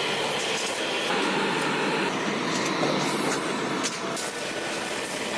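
Steady factory machinery noise with scattered sharp metallic clicks, from a leaf spring production line.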